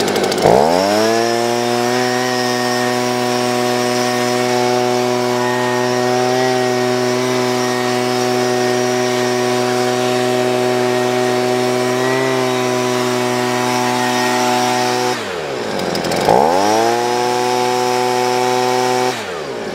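Handheld electric blower spinning up to a steady pitched whine and running for about fifteen seconds, blowing dust out of a car's dash air ducts. It winds down and stops, then starts again a second later, runs a few more seconds and cuts off.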